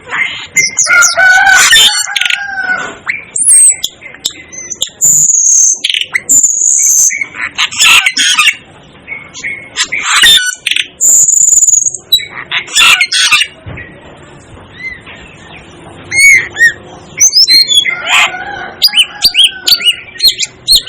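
Asian glossy starling calling: a rapid, jumbled run of sharp chirps, squeaks and whistles, with a short lull about two-thirds of the way through.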